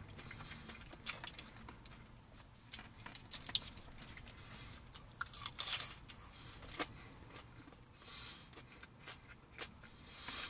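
Close-up chewing of a crispy breaded fried chicken strip: mouth sounds with irregular sharp crunches and clicks.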